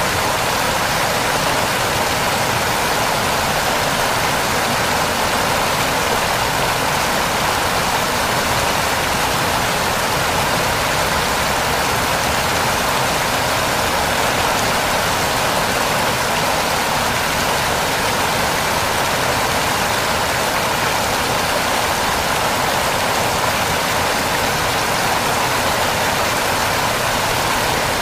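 Waterfall with water pouring and splashing in a steady, unbroken rush.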